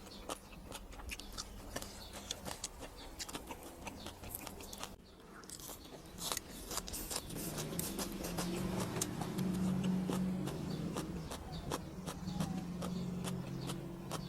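Close-up crunchy chewing and biting: a fast, irregular run of crisp crackles. From about halfway through, a low steady hum runs underneath the chewing.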